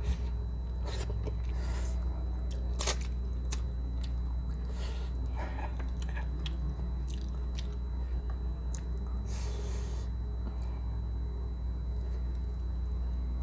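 Close-up mouth sounds of a person eating paksiw na bangus (vinegar-stewed milkfish) by hand: wet chewing with scattered small clicks and crunches, over a steady low hum.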